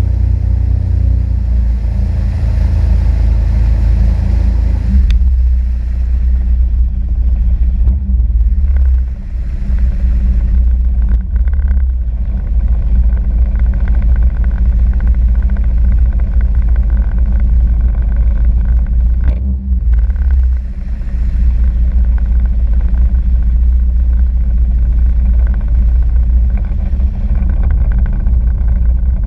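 Sea-Doo RXP-X 260 jet ski engine running at speed, a loud steady drone. A higher hiss drops away about five seconds in, and the engine note dips briefly twice.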